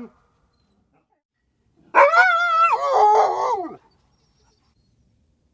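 A dog giving one whining howl of about two seconds, starting about two seconds in, its pitch wavering and then dropping at the end.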